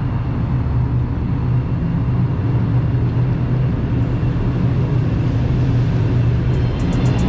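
Car engine running with a steady low rumble and no revving.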